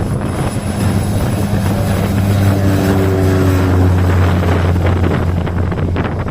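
Cessna Grand Caravan's single PT6A turboprop engine and propeller running at takeoff power, a steady low drone, with wind noise on the microphone.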